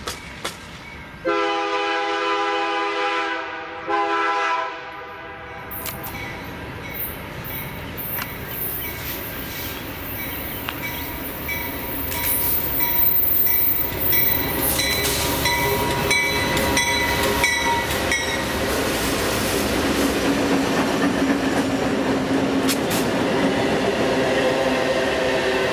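Diesel locomotive horn sounding two blasts, a longer then a shorter one, followed by a train passing through at track speed: a rumbling, clicking run of wheels over the rails that builds up and stays loud.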